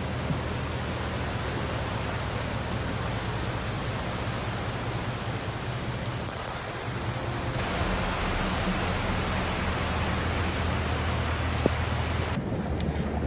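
Steady rushing hiss of heavy rain and floodwater. It grows a little louder about eight seconds in and loses its upper hiss abruptly near the end.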